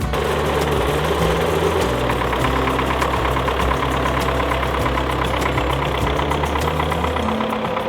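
Four-cylinder diesel engine of an MTZ-82 tractor running steadily with a rapid, even firing beat.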